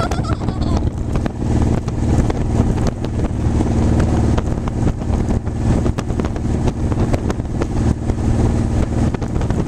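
Motorcycle engine running steadily while riding, heard from on the bike, with wind buffeting the microphone and frequent short knocks.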